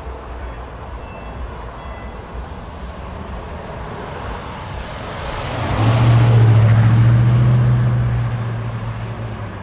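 A car drives past with a steady low engine note, swelling to its loudest about six seconds in and then fading as it moves away, over low background traffic noise.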